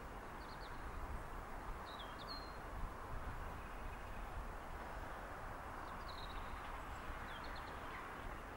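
Small birds chirping, a few short high calls scattered through, over a steady low rumble and hiss of outdoor background noise.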